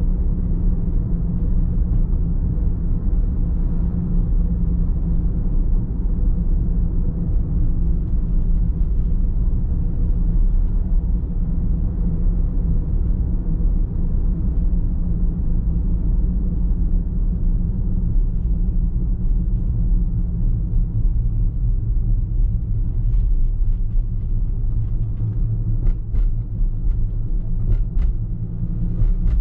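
Steady low rumble of a car driving, with road and engine noise. A few light clicks come in the last few seconds.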